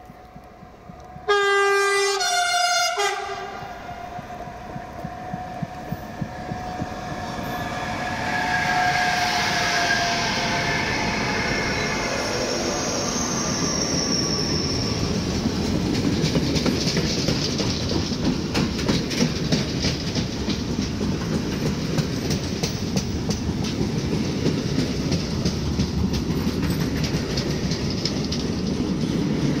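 A freight train's electric locomotive sounds its horn in two short blasts about a second in. The train approaches with some wheel squeal, and its long rake of covered goods wagons then rolls past close by, a steady rumble with the rhythmic clickety-clack of wheels over the rail joints.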